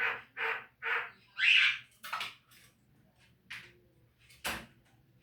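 Javan myna (jalak kebo) calling: a run of short, harsh calls about two a second, then a longer, louder squawk, followed by scattered shorter calls and one sharp call near the end.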